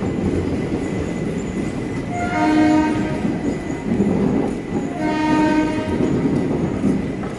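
Train horn sounding two blasts, each about a second long and about three seconds apart, over the steady rumble of a departing passenger train's coaches rolling past.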